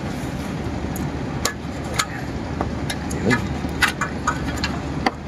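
Scattered short clicks and knocks of hand work on the rammer's metal parts, over a steady low background rumble.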